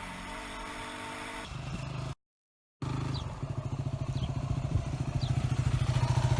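Motorcycle engine running steadily. After a brief cut to silence, a motorcycle engine idles with an even, rapid pulse.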